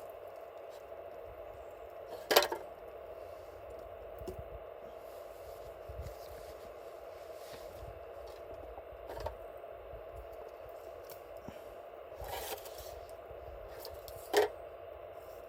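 A steady hiss with sharp clicks over it: two loud ones, about two seconds in and near the end, and a fainter one midway.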